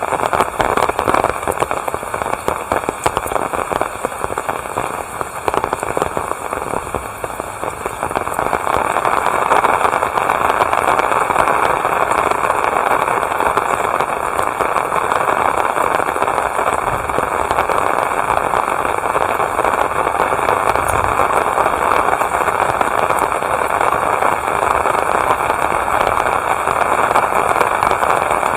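Heavy rain falling, a dense crackling patter of drops that grows louder about eight seconds in and then holds steady.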